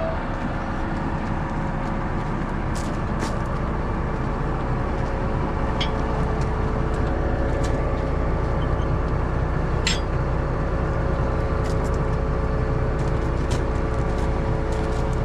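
Large diesel engine of farm machinery running steadily with a low rumble and a steady hum, growing slightly louder, with a couple of sharp clicks.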